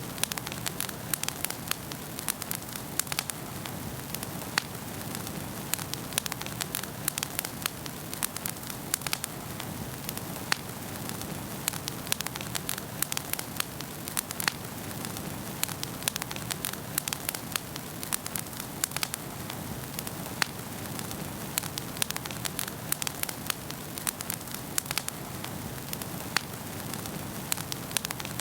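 Wood fire burning in a fireplace, with a steady low hiss and many sharp irregular crackles and pops.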